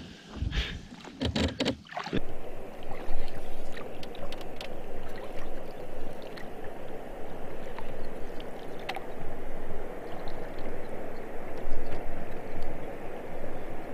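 Canoe being paddled across a lake, with water lapping and splashing around the hull, a few knocks in the first two seconds, then a steady wash of water noise.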